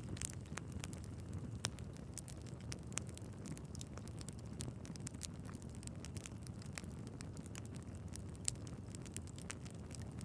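Wood fire burning in a fireplace: a steady low rumble of the flames with frequent irregular crackles and pops from the logs, one sharper pop about eight and a half seconds in.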